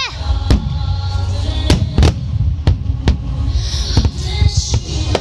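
Fireworks shells bursting overhead in a rapid series of sharp booms, about one or two a second, over a steady low rumble, with music playing along.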